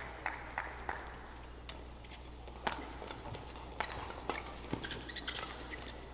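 Badminton doubles rally: sharp racket hits on the shuttlecock come at irregular intervals of roughly half a second to a second, mixed with quieter footfalls and shoe taps on the court.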